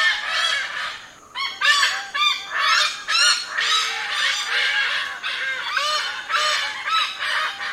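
Malabar pied hornbills calling: a rapid run of short, arched calls, several a second, some overlapping.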